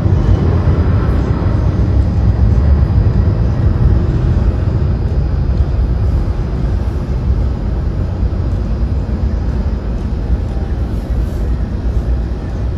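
Turbofan engines of a twin-engine narrowbody jet airliner, a loud deep rumble that slowly eases off.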